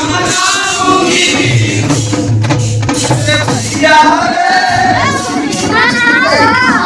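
Voices singing a Holi folk song (lokgeet) with musical accompaniment.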